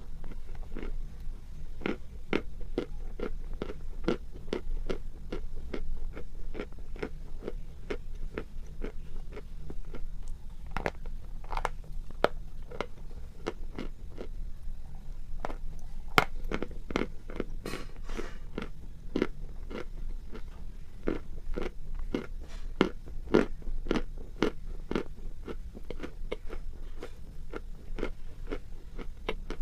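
Close-miked mouth biting and chewing a hard, crumbly mineral lump: a steady run of sharp crunches, a few each second.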